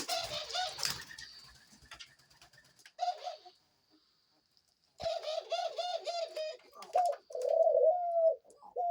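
Male dove cooing in courtship display: a brief coo about three seconds in, then from about halfway a quick run of short coos followed by longer drawn-out coos.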